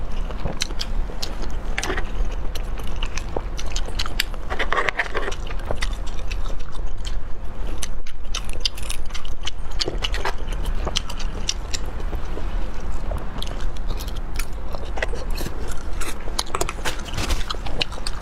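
Close-miked eating: a dense run of sharp clicks, crunches and wet smacks of biting and chewing, over a steady low hum.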